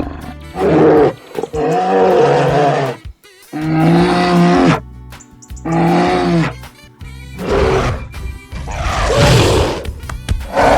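A run of loud cartoon animal roars and calls, each about a second long, with a rougher, noisier roar near the end.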